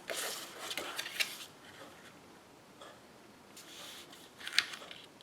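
Paper and craft supplies handled on a work surface: rustling in the first second or so, then quieter shuffling and a sharp tap about four and a half seconds in.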